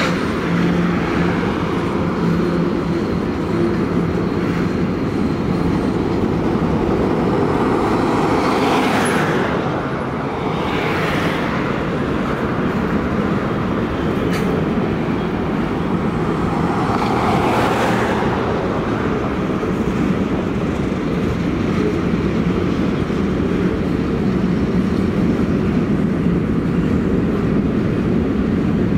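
Freight train cars rolling steadily past, tank cars and then covered hoppers, steel wheels running over the rails. A few times a brief swell of higher hiss rises over the rumble.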